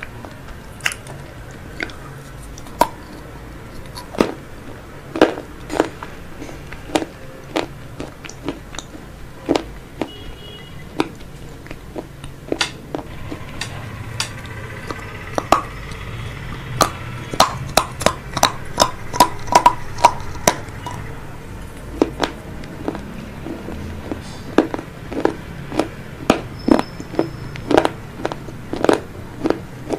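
Close-miked eating of crunchy chips: scattered sharp crunches of bites and chewing, with a quick run of crunches a little past the middle.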